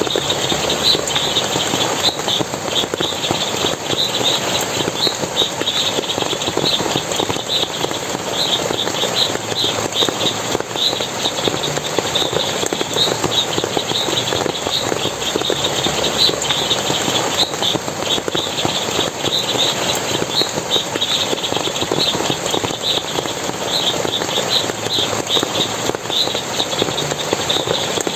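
Forest water running and splashing steadily, with rapid, high-pitched chirping repeating several times a second throughout.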